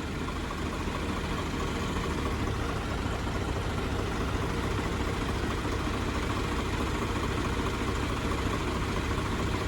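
Diesel tractor engine running steadily in a tug-of-war pull, a low, even rumble that grows a little louder over the first couple of seconds.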